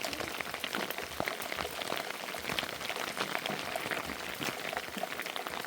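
Rain falling steadily, with many separate drops pattering close by.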